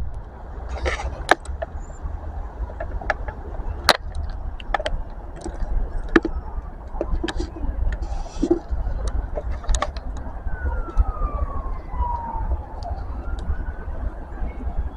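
Railway platform background: a steady low rumble with scattered clicks and knocks, two short hisses, and a single falling tone about ten seconds in.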